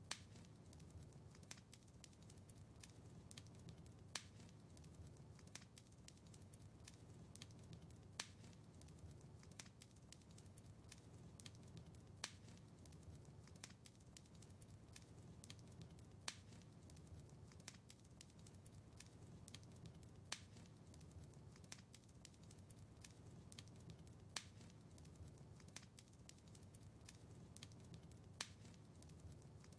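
Quiet wood fire crackling: a steady scatter of small snaps with a louder sharp pop about every four seconds, over a low steady rumble.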